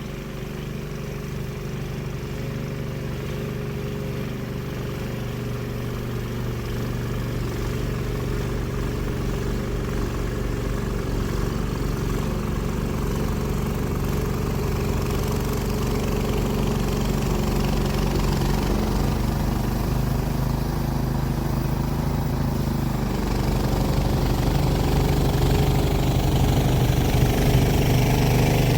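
Small gasoline snowblower engine running steadily, growing gradually louder.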